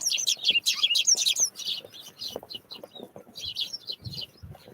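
Small songbirds calling with rapid, high chirps, densest in the first second and a half and again in a short burst toward the end, with a few soft low thuds near the end.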